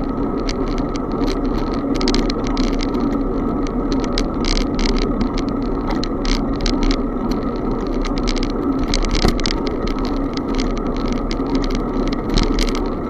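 Bicycle riding noise: a steady rush of wind and tyre noise, with many short rattles and clicks throughout.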